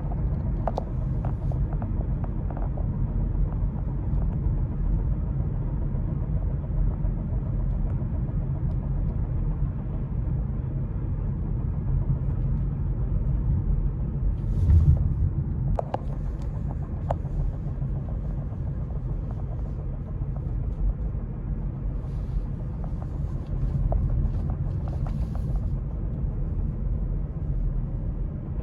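Hyundai Kona Electric making a steady low rumble, with a couple of sharp clicks a little past halfway; the owner presents the rumble as a bad, abnormal sound from the car.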